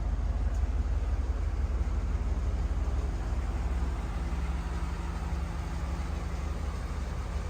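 A 1986 Pontiac Firebird Trans Am's V8 engine running with a steady, rough low rumble.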